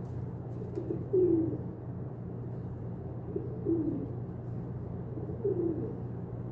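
Pigeons cooing: three low coos about two seconds apart, each falling in pitch, over a steady low hum.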